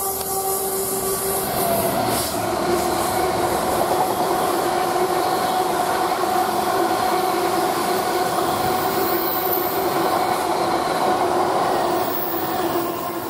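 Train running on the track: a steady, loud rumble of wheels on rail with a sustained whine held over it.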